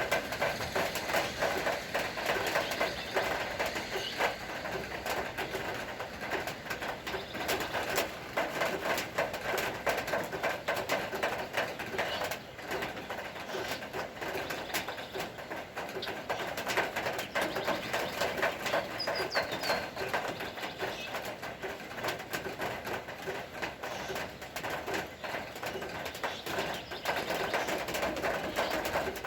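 Steady rain falling, with a constant dense patter of sharp drop hits. A bird calls briefly about two-thirds of the way through.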